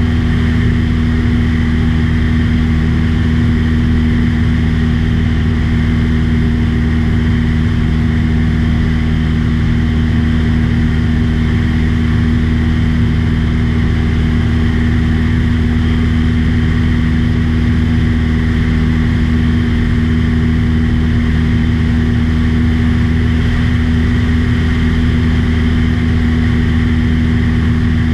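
Aircraft engine running steadily in flight, with a constant pitch that does not change.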